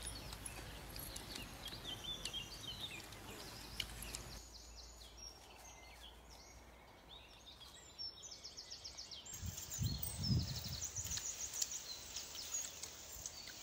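Birds chirping and calling over faint rural background noise, with a short rapid trill partway through and a few soft low sounds about ten seconds in.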